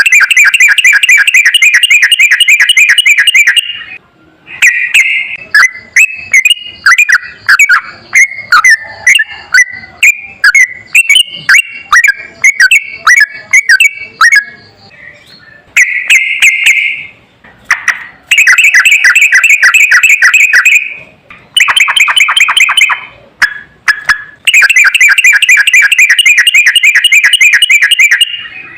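Yellow-vented bulbul (trucukan) song played loud: bursts of very rapid, rattling trills of repeated notes, broken up by a run of separate quick chirps in the middle and several more trill bursts near the end.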